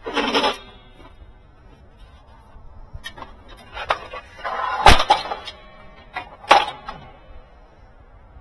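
Metal parts being handled: scattered clanks and knocks, with a sharp bang about five seconds in and another about a second and a half later.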